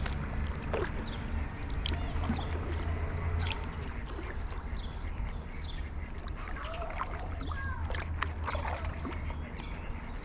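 Birds chirping and calling in many short notes over a steady low rumble.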